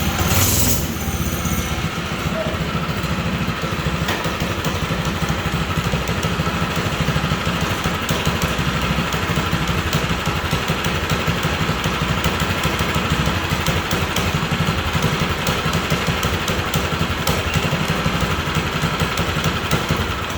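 Tillotson 212 single-cylinder engine on a mini bike running at a steady, unrevved speed, sounding horrible before its carburettor idle is set.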